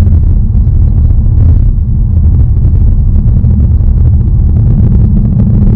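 2019 Ford Mustang Bullitt's 5.0-litre V8 running at a steady pace on the move, a loud, even low rumble with no revving.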